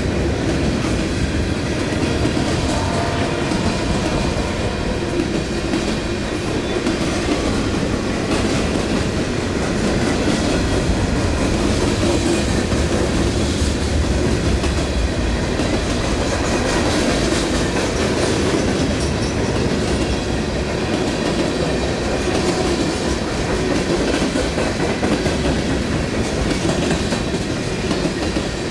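Train cars rolling steadily past, wheels clacking over the rail joints with a continuous rumble.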